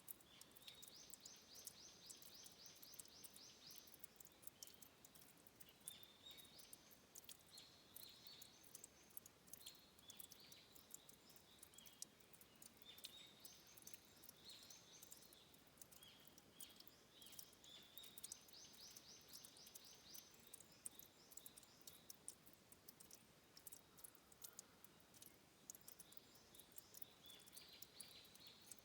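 Faint forest birdsong: small birds calling in short high phrases, with a fast trilled song of about three seconds near the start, again about two-thirds through and at the very end. Many small sharp ticks run under it.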